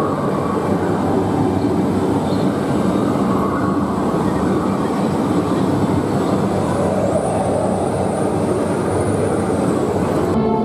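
Steady rumbling noise of a moving dark-ride vehicle, heard from on board, with no break in it. The high hiss cuts off just before the end.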